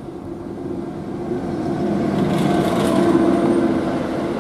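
Electric locomotive hauling a loaded lignite coal train, approaching and passing close by. Its running hum and the rumble of wheels on rails grow louder to a peak about three seconds in.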